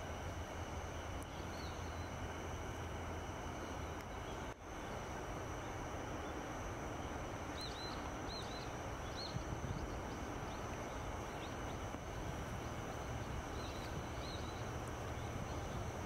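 Steady low outdoor rumble with a few short, high chirps from a small bird: a cluster of about four about halfway through and two more near the end.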